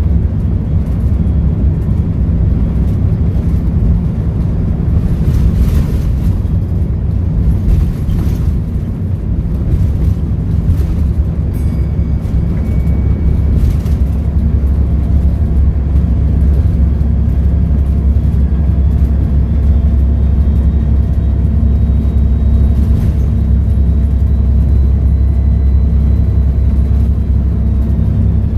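Volvo B7RLE bus's six-cylinder turbodiesel engine running with a steady low drone, a thin high turbo whistle riding over it and rising slightly about halfway through.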